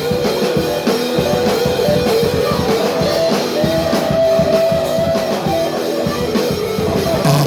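A thrash metal band playing live: distorted electric guitars over a drum kit in an instrumental passage between sung lines, with a long held guitar note through the middle.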